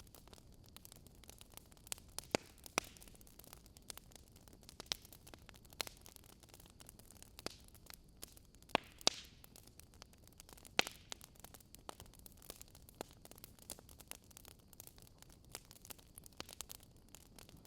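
Wood fire crackling: irregular sharp pops and snaps of burning logs over a faint steady hiss, with a few louder pops past the middle.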